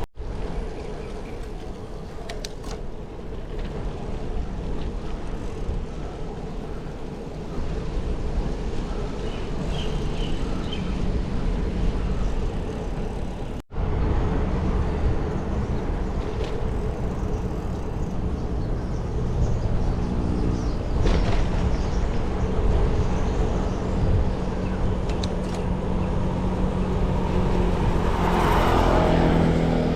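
Steady road and traffic noise heard while riding, a low rumble with motor vehicles going by. A vehicle engine grows louder as it passes near the end.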